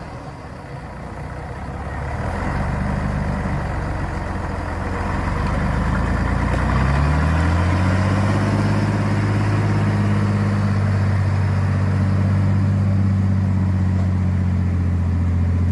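Truck engine running at low speed, then revving up about seven seconds in and holding a steady, higher engine speed.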